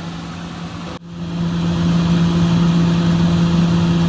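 Excavator's diesel engine running steadily with a constant hum. It drops out for an instant about a second in, then carries on louder.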